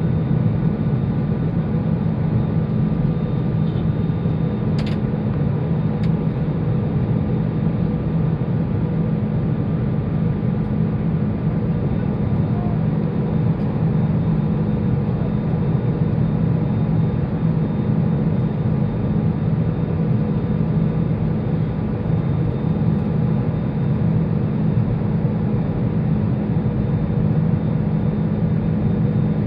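Steady engine and airflow noise inside an Airbus A320-214 on final approach, a deep even drone with a few faint steady tones from its CFM56-5B engines. Two faint clicks come about five and six seconds in.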